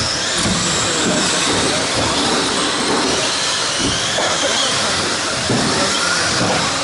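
A pack of radio-controlled stadium trucks racing on the track: a steady hiss of motors and tyres, with faint whines that rise and fall as the trucks speed up and slow down.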